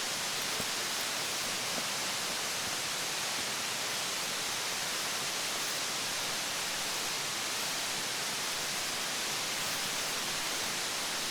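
Mountain stream flowing, a steady rushing of water over rocks.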